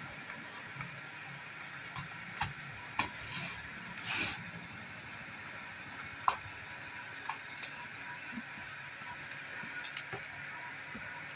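Scattered clicks, taps and short rustles of packaging and parts being handled during a washing machine unboxing, with two brief bursts of rustling about three and four seconds in, over a steady faint hiss.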